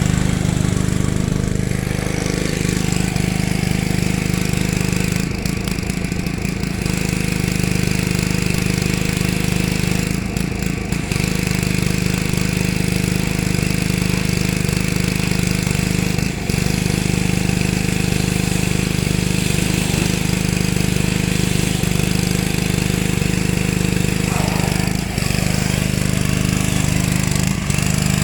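Gas-engine pressure washer running steadily under load, with the hiss of the water spray on top; the level dips briefly a few times.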